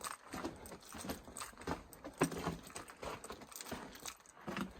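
Footsteps crunching and scuffing on the loose rock and gravel floor of a mine tunnel, an irregular series of steps.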